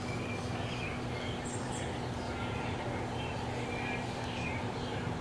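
A young wild bird giving a scattering of faint, short chirps over a steady low background hum.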